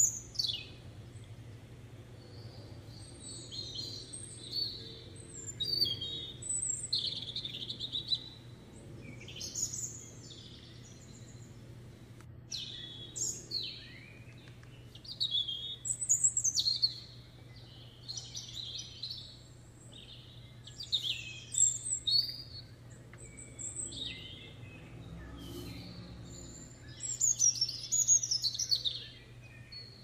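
Songbirds chirping and singing: short sweeping, varied calls that come in bursts every couple of seconds, over a low steady hum.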